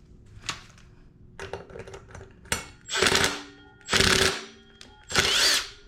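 Cordless impact tool run in three short bursts of rapid hammering rattle, each under a second, while working a fastener on a mini bike's brake setup.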